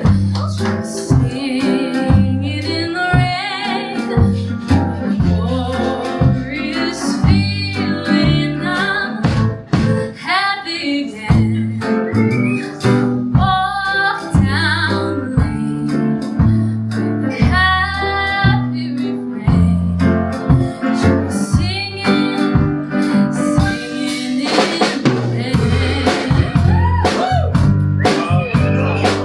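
Live folk-rock band of guitar, bass, drums and piano accompanying sung vocals.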